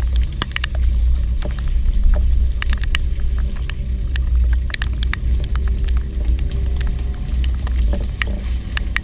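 A fishing boat's engine running with a steady low rumble, overlaid by irregular sharp taps of raindrops.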